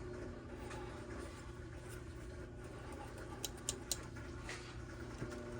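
Faint steady hum with a few light clicks about three and a half seconds in, from small tools or parts being handled on a workbench.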